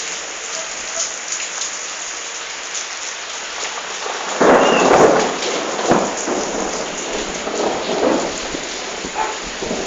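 Steady rain falling in a thunderstorm, with a sudden loud clap of thunder about four and a half seconds in, followed by rolling rumbles.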